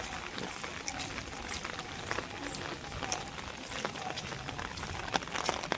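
Heavy rain falling steadily, with scattered sharp taps of individual drops.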